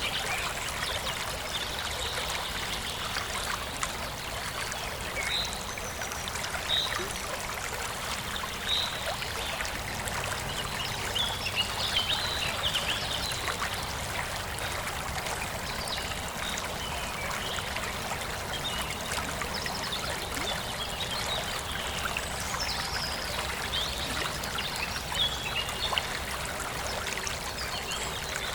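Forest stream flowing and trickling steadily over rocks, with small birds chirping now and then in short high calls.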